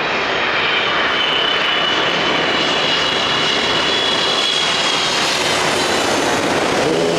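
Jet airliner passing low overhead, a loud steady rush of engine noise with a high whine that slowly falls in pitch as it goes by.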